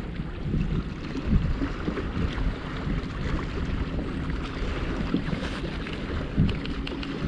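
Wind buffeting the microphone over water lapping around a kayak, with a few light knocks and a faint steady hum coming in about two and a half seconds in.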